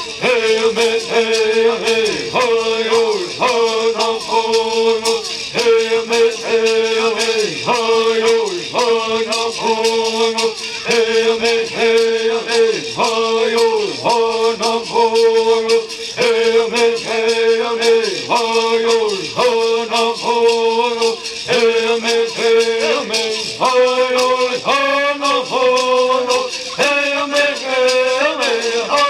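Traditional Southern California bird song sung by male voices to the steady shaking of gourd rattles, in short repeated phrases that fall in pitch.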